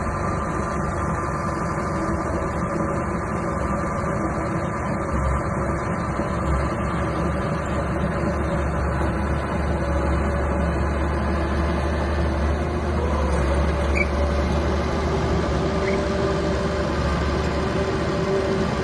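Small bulldozer engine running steadily under a heavy, even hum, its pitch rising slightly about two-thirds of the way through.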